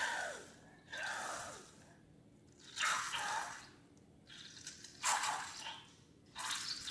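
Wet, squishy sounds of slime ingredients being poured and worked, in about six separate bursts, the first two with a falling sweep.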